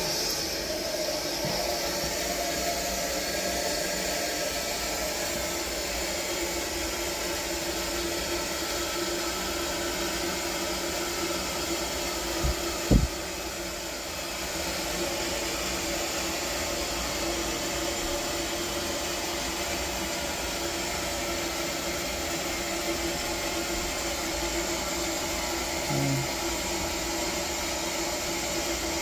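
Water running steadily through the manual fill valve into a steam boiler as it is refilled, with a couple of sharp knocks about halfway through.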